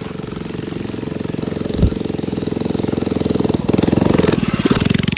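Mini bike engine running and revving, with the revs rising to their loudest a little past halfway and then easing off. A brief thump comes about two seconds in.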